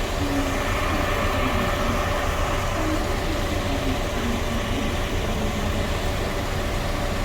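Steady rumbling noise with a faint steady hum running through it.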